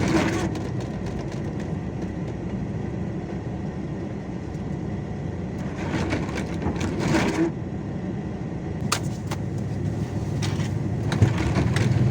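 A vehicle engine running steadily with a low hum, under a haze of noise. Several short bursts of noise come midway, and there is a sharp knock near the end.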